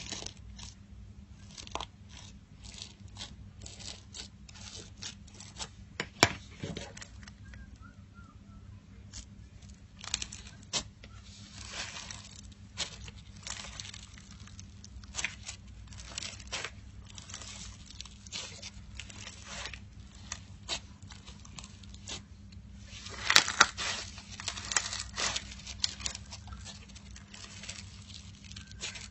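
Slime being squeezed and worked by hand, giving irregular crackling clicks and pops, with a denser, louder run of crackles a little after twenty seconds in. A steady low hum runs underneath.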